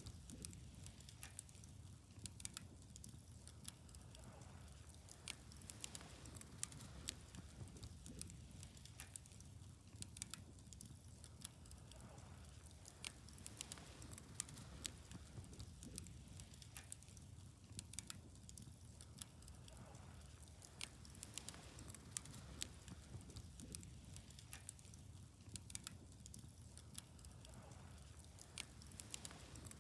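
Wood fire burning quietly, with frequent irregular sharp crackles and pops over a low steady rumble.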